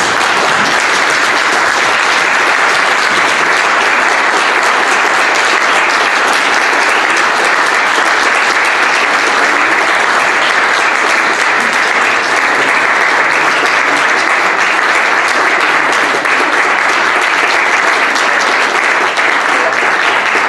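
Sustained applause from a room of people clapping, steady and loud throughout.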